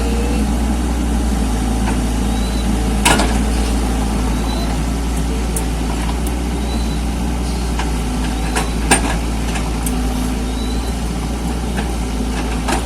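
Mini excavator engine running steadily, with three sharp knocks spread across the stretch.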